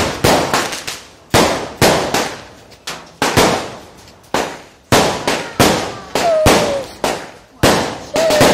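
Aerial fireworks going off in quick succession: loud sharp bangs about every half second, each fading out with a crackling tail.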